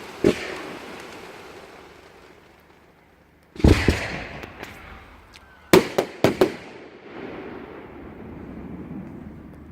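Fireworks exploding in the sky: a bang just after the start, a bigger burst a few seconds later, then a quick cluster of four or five sharp bangs, each trailing off in a fading rumble.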